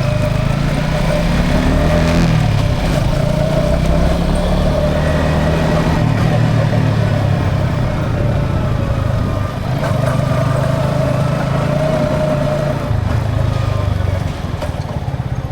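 Yamaha XSR 155's single-cylinder engine running on the move, its note rising and falling several times. About fourteen seconds in it drops to a quieter, evenly pulsing beat, with road and wind noise underneath.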